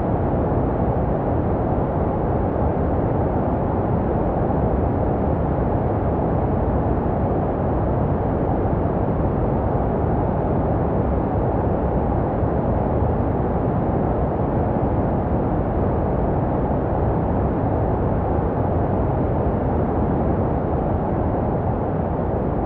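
Steady, muffled white noise for soothing a baby, deep and dull with little hiss in the treble, made to resemble the whooshing a baby hears in the womb.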